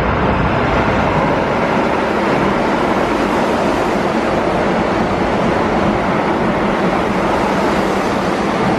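Keihan 8000 series limited express electric train passing through a station at speed right alongside the platform: a loud, steady rush of wheel, rail and air noise.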